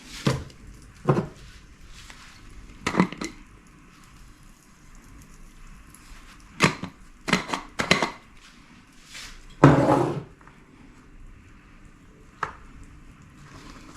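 Dishes and cutlery handled in a kitchen: scattered separate clinks and knocks, with a louder, longer clatter about ten seconds in.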